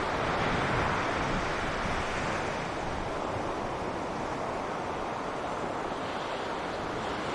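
Sea surf on a beach: a continuous wash of waves, a little louder about a second in and then easing off slowly, with wind on the microphone.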